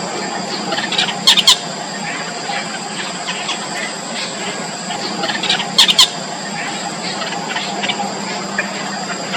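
Yellow bittern chicks in the nest giving repeated short, high squeaky begging calls, with two louder brief bursts of squeals, about a second and a half in and about six seconds in.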